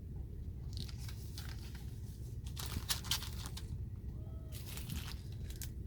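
Plastic product packaging crinkling in bursts as it is handled, over a steady low hum.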